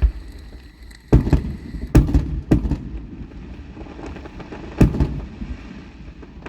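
Aerial fireworks shells bursting: a string of sharp booms with rumbling low end, clustered in the first three seconds and one more near five seconds, with fainter crackle between.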